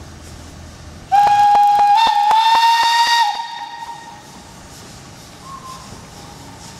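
Steam locomotive whistle blowing for about two seconds, its pitch stepping up slightly partway through, followed by a steady hiss of steam.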